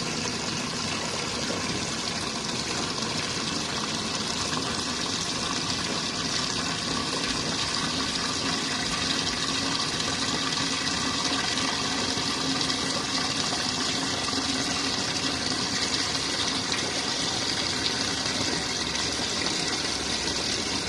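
Cold water from a hose pouring steadily into the wash tub of a compact twin-tub washing machine, filling it for the first rinse.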